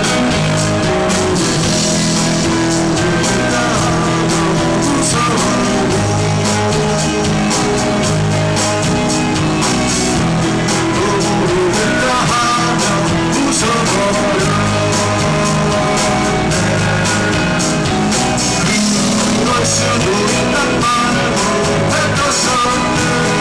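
Rock band playing live: electric guitar, bass and drum kit in a loud, steady mix.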